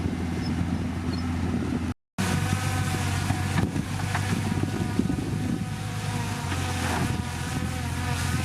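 Diesel engine of heavy earthmoving machinery running steadily, with a higher multi-tone whine over it after a brief drop-out about two seconds in.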